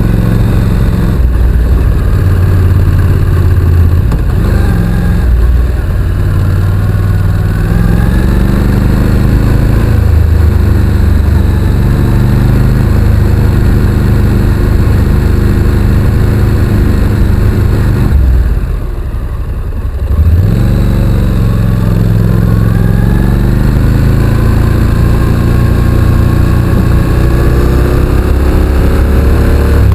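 Honda NC750X parallel-twin engine under way, its pitch climbing and falling with the throttle and gears. About two-thirds of the way through it briefly drops away as the throttle closes, then pulls again with a steady rise in pitch.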